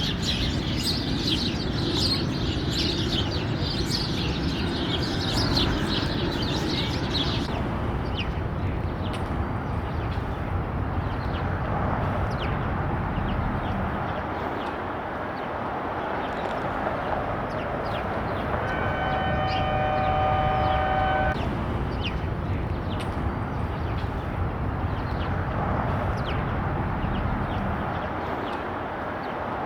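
Sparrows chirping rapidly for the first several seconds over a steady low rumble of city traffic. About nineteen seconds in, a distant horn sounds one steady chord for about two seconds.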